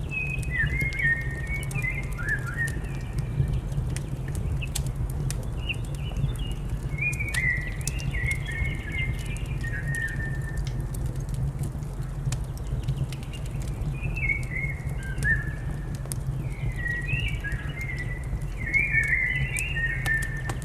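Birdsong over a crackling fire: a songbird sings bouts of short phrases that step down in pitch, four bouts in all with pauses between, while the fire keeps up scattered sharp crackles over a steady low rumble.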